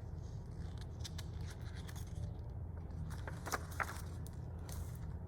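Paper rustling and a few light clicks as a picture-book page is handled and turned, with two sharper ticks about three and a half seconds in, over a steady low hum.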